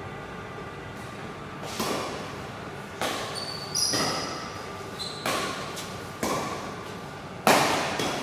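Badminton rally: rackets hitting the shuttlecock about once a second, each crack echoing in a large hall, with a few short high shoe squeaks in the middle, the loudest hit near the end.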